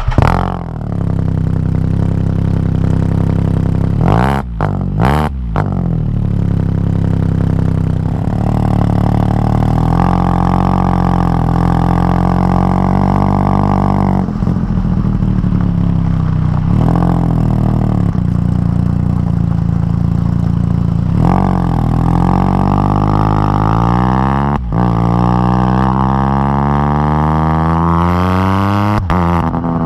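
2020 Can-Am Spyder RT's Rotax 1330 inline three-cylinder running through an RLS Crusher series exhaust with the catalytic converter deleted, under way on the road. The pitch dips briefly at gear changes a few seconds in, holds steady at cruise, then rises and falls as it accelerates through the gears near the end.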